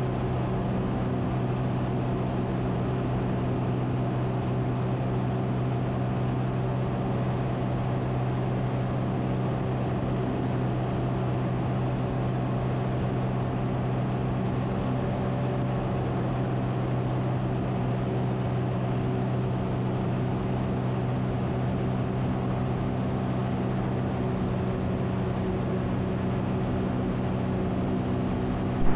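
Ikarus C42 light aircraft's engine and propeller running at a steady cruise setting, a constant drone with no change in pitch or level.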